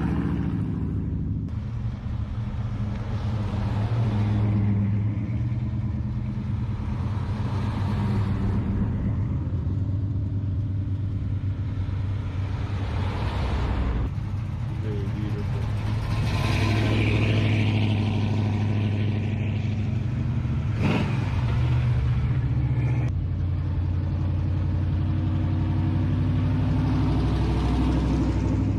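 Old cars' engines running and pulling away, the rumble swelling as cars pass, with abrupt changes in the engine note where one car gives way to the next. One short sharp crack about 21 seconds in.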